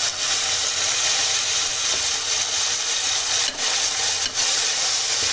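Fresh green peas sizzling in hot ghee, a loud, steady frying hiss that began as they went into the pan. A spoon stirs them, knocking lightly on the pan twice about three and a half seconds in.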